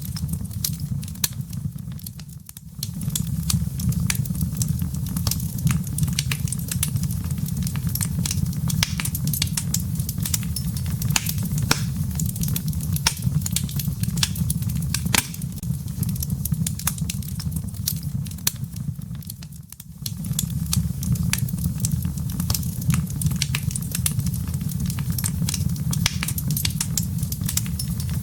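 Wood fire crackling in a fireplace: many sharp pops and snaps over a steady low rumble, which drops away briefly twice.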